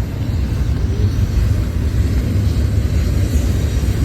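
Freight train rumbling steadily past, a deep continuous rumble.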